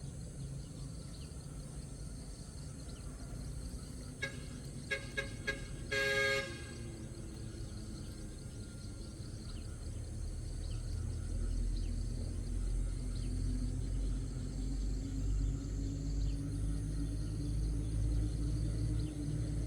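A vehicle horn: four short beeps followed by one longer, louder honk about six seconds in. From about ten seconds a low vehicle engine rumble builds and grows louder.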